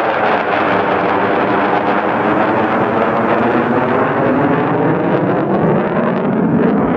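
Jet aircraft passing low overhead at an air show. Its engine noise is loud and steady, with a sweeping, phasing whoosh as the sound changes while it goes by.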